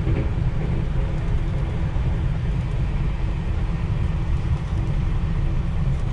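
Steady low rumble of a Rajdhani Express passenger train running at speed over a river bridge, heard from inside an air-conditioned coach, with a faint steady hum.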